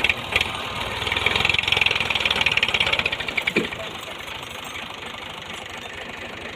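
Tractor engine working hard under load, straining to haul a stuck, wood-loaded trolley up a sand dune. It runs louder with a rapid knocking pulse for a few seconds, then eases back to a steadier, quieter run near the four-second mark.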